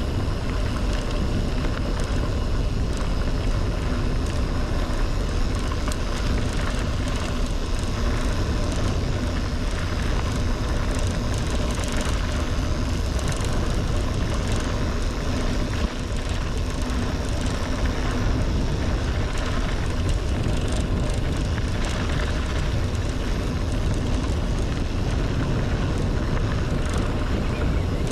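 Loud, steady wind rush buffeting the microphone during a fast mountain-bike descent, over the rumble of the tyres on a dirt road.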